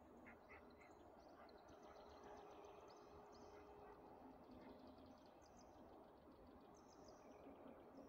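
Near silence with faint birdsong: small birds giving short high chirps and quick trills, one after another.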